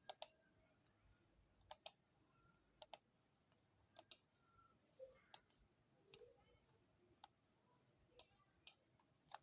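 Faint, scattered clicks at a computer as text is copied and pasted, about a dozen spread roughly a second apart, some in quick pairs.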